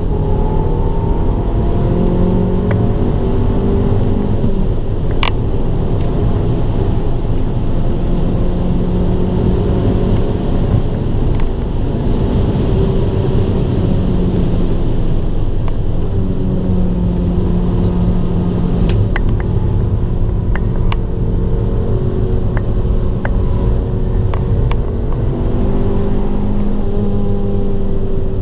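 Abarth 595 Turismo's turbocharged 1.4-litre four-cylinder under hard driving on track, its engine note repeatedly climbing and dropping as it accelerates and shifts or lifts. A heavy steady rumble of road and wind noise runs underneath, with scattered sharp clicks.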